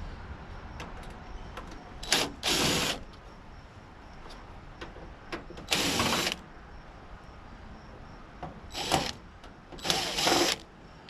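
Power drill-driver backing screws out of a tankless water heater's casing, running in about five short bursts of under a second each.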